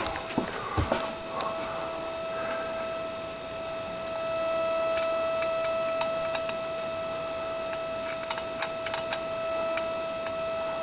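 Steady electronic hum, one held tone with several overtones, from a radio-control transmitter interfering with the camera's electronics. A few faint clicks come about a second in and again near the end.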